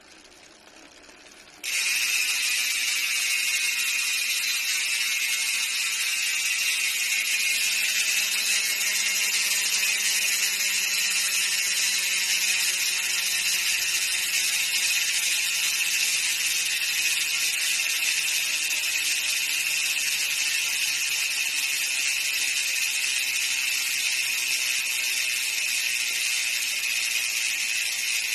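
SpeedOne Soldier six-pawl MTB rear hub freewheeling. The pawl clicks start suddenly about two seconds in as one loud, continuous ratchet buzz, and the buzz slowly drops in pitch as the spun wheel coasts down.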